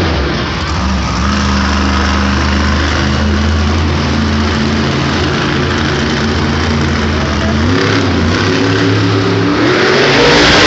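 Grave Digger monster truck's supercharged V8 engine running at low revs, then revving up from about eight seconds in and growing louder near the end.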